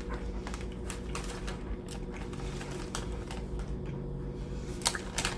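Chewing crunchy Lay's potato chips: irregular crisp crunching clicks, over a steady low hum.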